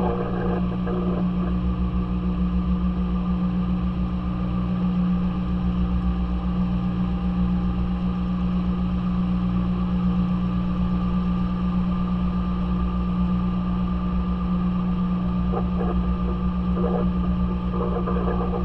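Maytag washing machine running, its motor giving a steady, unbroken hum, heard from inside the drum. A few faint knocks come near the end.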